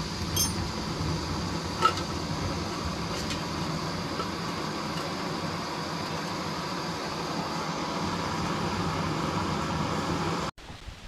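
Steady rain falling: a constant rushing hiss with a low rumble underneath and a few faint ticks of drops.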